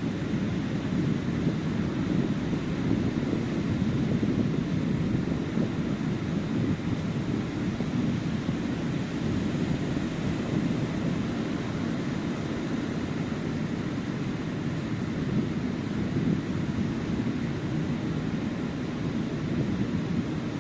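Ocean surf washing onto a sandy beach: a steady, even rush of waves with a low rumble and no single breaker standing out.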